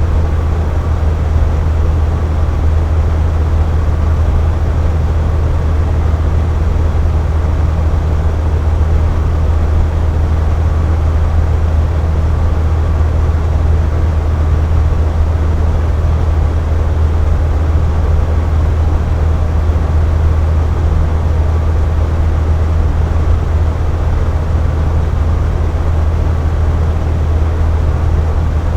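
Box fan running steadily: an even rush of moving air over a strong, constant low hum.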